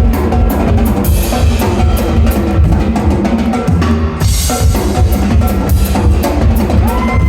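Drum kit and percussion playing a fast, dense rhythm over a heavy bass drum. A high held note comes in near the end.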